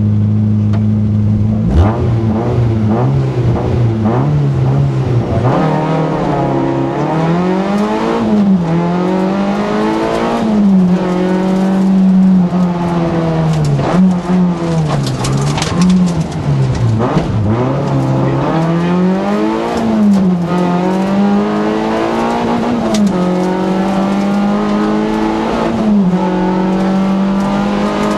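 Peugeot 106 Rallye's four-cylinder petrol engine heard from inside the cabin. It is held at steady revs at first; about two seconds in the car pulls away, and from then on the revs climb and fall repeatedly as it is driven hard through gear changes and lifts for corners.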